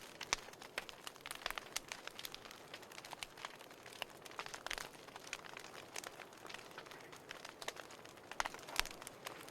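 Wood fire crackling in a fireplace: a steady soft hiss with many small irregular snaps and pops, a few sharper pops standing out near the start and near the end.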